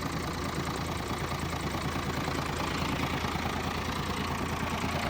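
An International truck's Navistar engine idling steadily.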